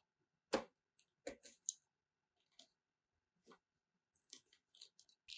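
Cardboard product box being opened by hand: a few scattered soft clicks and taps, then light rustling of packaging near the end.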